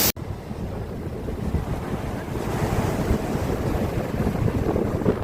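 Gusty wind buffeting the microphone in uneven low rumbles over the steady rush of falling water from a waterfall. A brief dropout comes right at the start.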